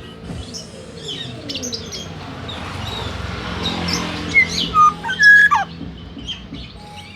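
Songbirds chirping, with a few loud, clear whistled notes sliding down in pitch about four to five and a half seconds in, typical of the fluting call of a black-naped oriole. A steady low hum runs underneath.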